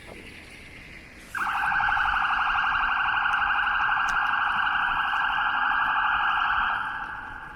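A loud electronic alarm buzzing, starting suddenly and holding one steady rapid buzz for about five seconds before dying away.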